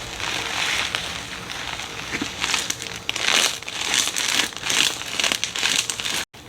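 Slime being squeezed and pressed by hand, giving a dense run of small pops and clicks over a wet hiss. The sound cuts out briefly near the end.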